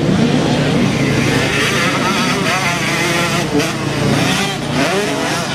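Motocross bike engines running and revving, their pitch repeatedly rising and falling as the bikes accelerate and shift.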